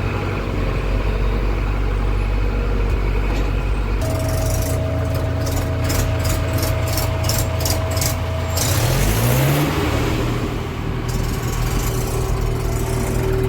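A heavy diesel machine's engine running steadily. Partway through, a steady tone and a rapid run of ticks join it, and the revs rise briefly about nine seconds in.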